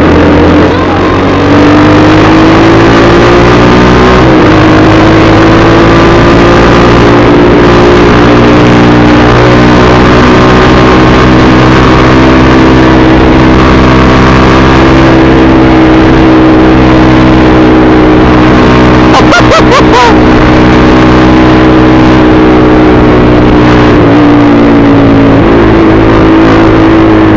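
Motorcycle engine running steadily under way at cruising speed, its pitch stepping up about four seconds in and dipping briefly near the end before settling back, with a short burst of clicks a little past the middle.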